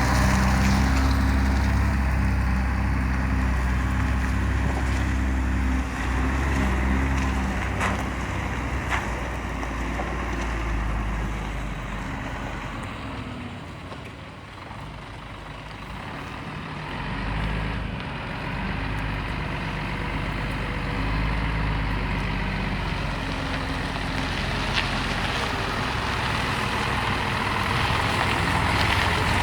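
Scania P124 truck's six-cylinder diesel engine running, growing fainter to its quietest about halfway through and then louder again.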